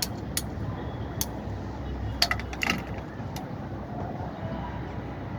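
A few sharp metallic clicks and clinks of small parts or tools being handled, loudest in a quick cluster about two seconds in, over a steady low rumble.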